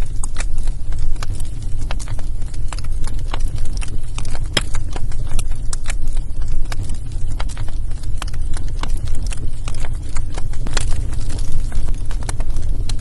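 Wood fire burning in a fireplace: a steady low rumble of flames with frequent, irregular sharp crackles and pops of the burning logs, the loudest pop about four and a half seconds in.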